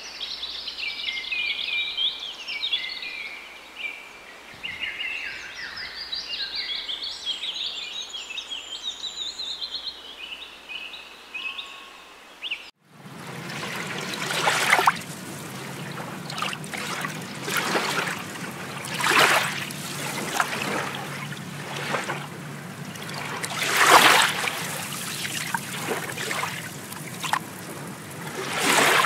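Many songbirds chirping and singing together. About halfway through it cuts abruptly to water splashing and sloshing in uneven surges.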